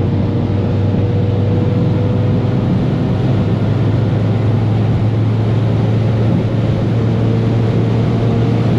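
Supercharged S65 V8 in a BMW 1M at full throttle at very high speed, heard from inside the cabin: a steady engine drone mixed with wind and tyre noise.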